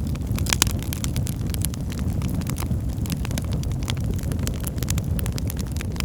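Wood fire burning in a fireplace: many quick, irregular crackles and pops over a steady low rumble of the flames, with one louder pop about half a second in.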